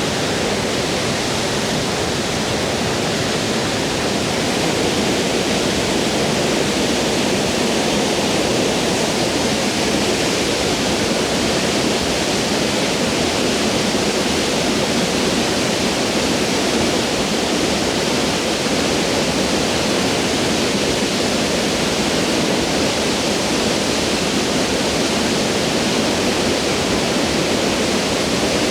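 A 46-metre waterfall in heavy flow: a loud, steady, unbroken rush of falling water.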